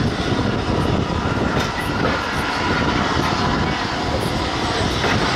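Train running along the track: a steady rumble with rail noise.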